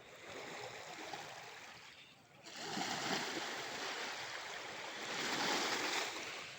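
Sea waves washing up a sandy shore. After a quieter wash, a wave rushes in about two and a half seconds in, swells again a little later, then fades out.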